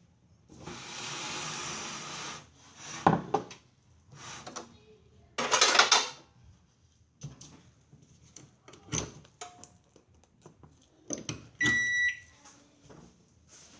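A microwave oven being handled: scattered knocks and clicks, a couple of short rushing noises, then a single high electronic beep lasting about half a second near the end.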